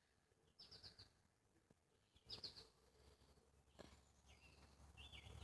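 Faint birdsong: short, quick chirps at intervals over a faint low rumble.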